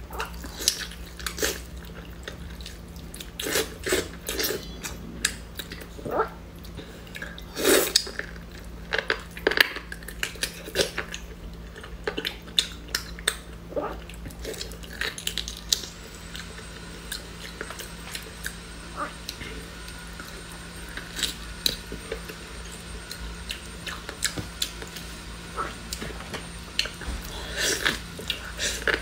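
Close-miked wet chewing and lip smacking as a person bites into and gnaws a piece of braised meat on the bone. Irregular sticky smacks and clicks come thick in the first half and thin out later.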